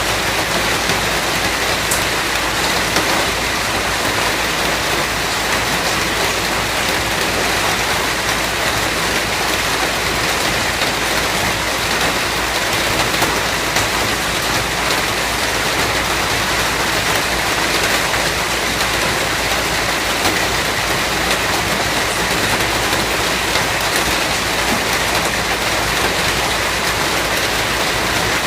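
Steady rain falling and pattering on a surface, an even hiss with occasional louder drops.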